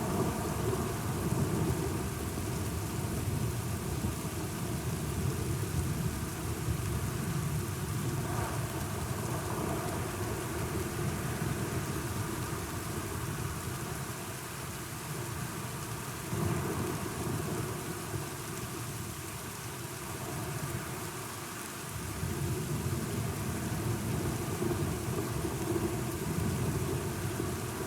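Steady heavy rain with low thunder rolling underneath, the rumble swelling and fading several times.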